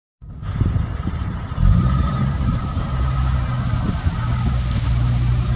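Heavy truck engine running on the road, a deep low drone that gets louder about a second and a half in and then holds steady.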